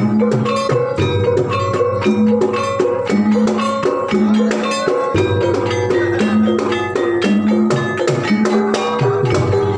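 Javanese gamelan music for a Banyumasan ebeg horse dance: fast, even strikes of tuned metal or bamboo percussion in interlocking patterns over a repeating lower note, with no singing.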